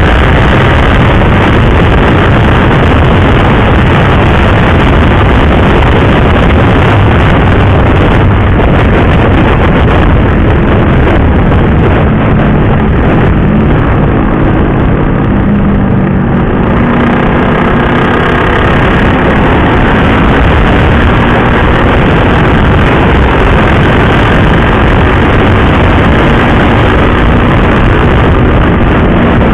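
Onboard sound of a KTM RC 390 sport bike being ridden: loud, steady wind rush on the microphone over the single-cylinder engine. The engine's pitch rises and falls with the throttle around the middle and again near the end.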